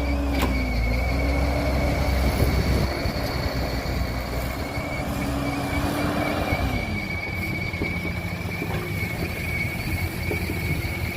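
Heavy earth-moving machinery running, with a deep engine rumble and a continuous high-pitched squeal over it. The rumble eases after about three seconds, and the engine pitch drops around two-thirds of the way through.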